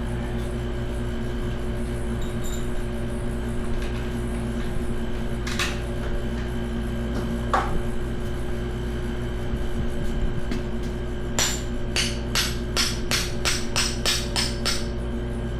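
A hammer striking metal: two separate blows, then a quick run of about ten ringing blows at roughly three a second, over a steady background hum.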